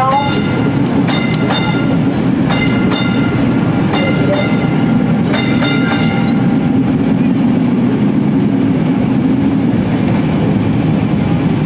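Vintage streetcar running along its track with a steady low rumble. For the first half, its wheels click in ringing pairs over the rail joints about once a second, then only the rumble goes on.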